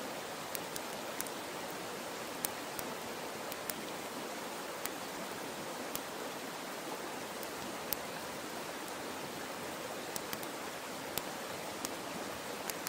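Creek water running steadily, with a wood campfire crackling in sharp, irregular pops over it.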